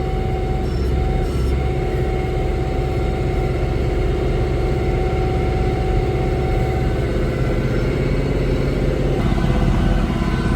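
John Deere 5085M tractor's diesel engine running steadily under load, driving a PTO snowblower, heard from inside the cab with a steady whine over the engine hum. The sound grows louder in the mid-range near the end.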